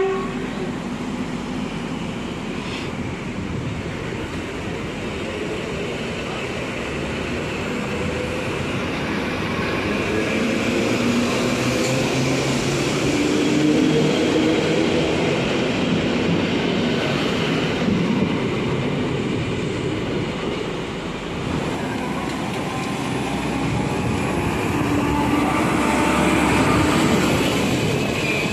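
Passenger trains pass close by along a platform, starting with an EN57 electric multiple unit: a steady rumble of wheels on the rails under a motor whine that glides up and down in pitch. The sound swells, eases about two-thirds of the way in, then swells again as another train goes by.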